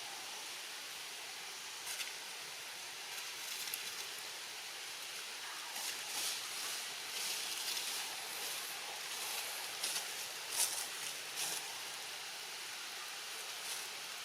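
Steady outdoor hiss with several short rustling bursts, a few of them sharper, the loudest about two-thirds of the way in.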